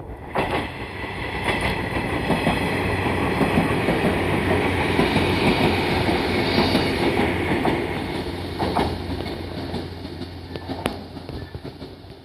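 Shinano Railway 115-series electric train passing, its sound building up, holding, then fading away toward the end, with a few sharp clacks of the wheels over rail joints and a steady low hum.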